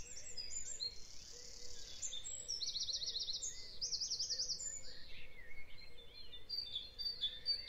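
Birds chirping, with a fast trill about two and a half seconds in and quick up-and-down notes just after.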